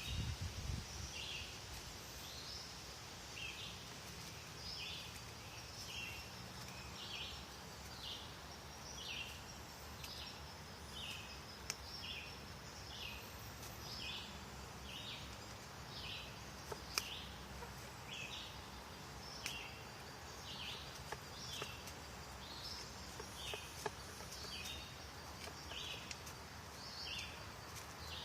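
A bird repeating a short, high call a little more often than once a second, over steady outdoor background noise, with a few sharp clicks.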